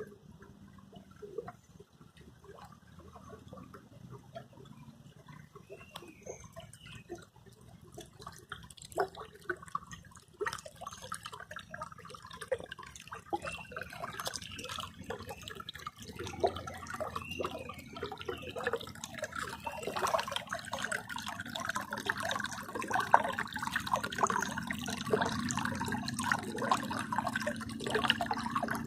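Water of a small river near its source running and splashing, a steady patter of small splashes that grows louder from about halfway through.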